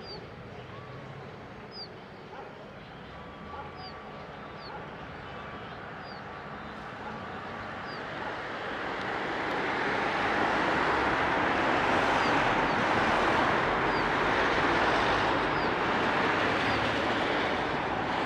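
Outdoor ambience: short high bird chirps about once a second, then a broad rushing noise that swells up about halfway through and stays loud.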